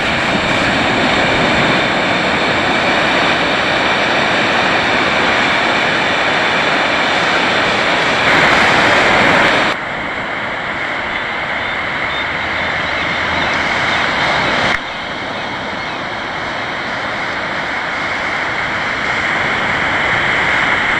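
Loud, steady rushing noise of wind on the microphone and water around a sea kayak riding through boat wake, dropping suddenly in level about ten seconds in and again about fifteen seconds in.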